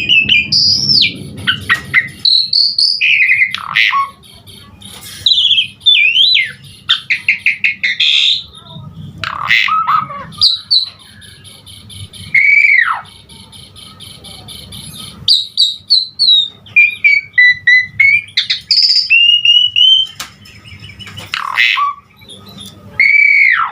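Asian pied starling (jalak suren) singing a loud, varied song of clear whistles, sharp downward-sweeping whistles, rapid chatters and high trills, with mimicked phrases worked into it. The song is broken by a few brief pauses.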